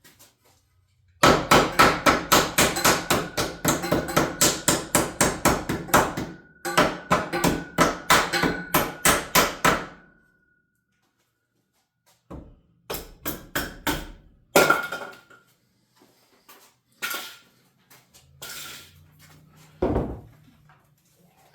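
A hammer striking rapidly, about four or five blows a second with a slight ring, for roughly nine seconds with a short break partway. After a pause, scattered single knocks and taps follow.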